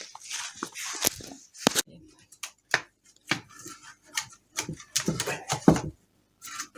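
Firewood logs being handled, giving irregular wooden knocks and clatters as they are lifted out and set down.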